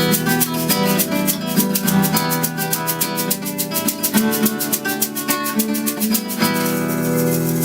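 Band playing an instrumental intro: guitar chords over a fast, even run of high percussive ticks.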